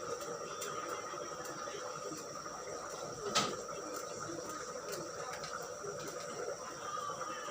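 Pot simmering on a low flame with its lid slightly ajar: a steady faint hiss with small ticks, and one sharp click about three and a half seconds in.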